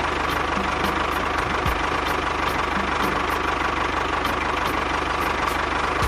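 An engine idling steadily, with a faint regular tick about three times a second.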